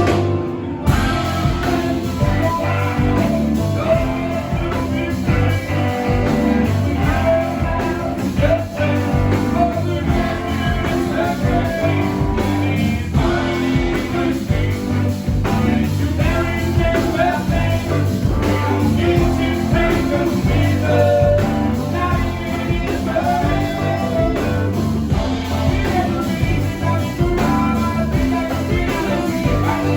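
Live rock band playing a blues-rock number, with electric guitar over bass and drums.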